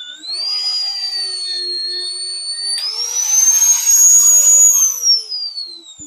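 Electric drill boring a 3/4-inch hole through half-inch steel plate: a high motor whine with rasping cutting noise, rising in pitch about three seconds in, then falling away as the drill spins down near the end.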